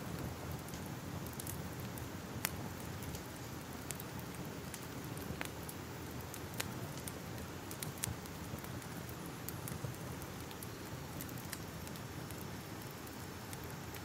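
Crackling fire: a steady soft hiss with sharp pops and snaps at irregular intervals.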